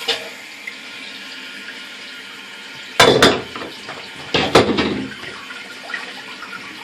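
Water running into a toilet tank through a newly installed Fluidmaster fill valve as the tank refills: a steady hiss, with two louder bursts about three and four and a half seconds in.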